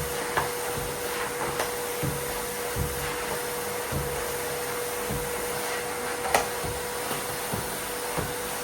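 Miele vacuum cleaner running steadily with a constant hum, crossed by soft low knocks about once a second. A few sharp clicks, the loudest about six seconds in, are Lego pieces being sucked up and rattling through the cleaner.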